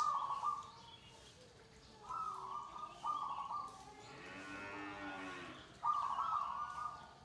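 Perkutut (zebra doves) cooing in short, bright phrases: one at the start, two around two and three seconds in, and another near the end. In between, about four seconds in, comes a longer, lower, drawn-out call.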